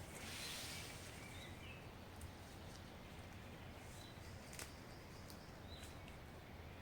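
Faint forest ambience: a steady outdoor hiss with a few short, high bird chirps and several sharp ticks.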